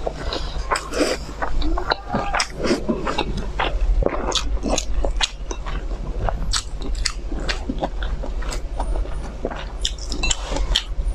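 Close-miked chewing of a mouthful of pan-fried dumplings: dense, irregular wet mouth clicks and smacks, over a steady low hum.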